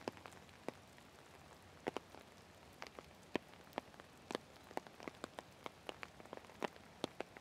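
Rain falling, heard as scattered, irregular taps and drips of raindrops over a faint steady hiss.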